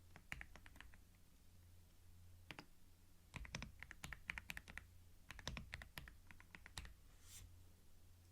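Computer keyboard typing in irregular bursts: a few keystrokes near the start, a single one around two and a half seconds, then a quicker run of clicks from about three to seven seconds. A short soft swish follows near the end, over a low steady hum.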